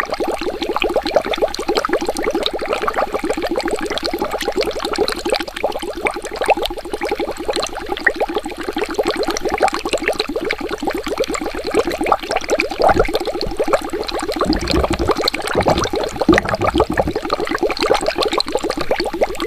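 Water bubbling steadily, a dense stream of many small bubbles popping and gurgling, with a few low rumbles in the second half.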